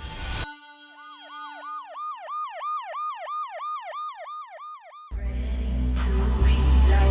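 A siren sounding in a fast, even up-and-down wail, about three sweeps a second, for about four seconds. About five seconds in, loud music with heavy bass cuts in over it.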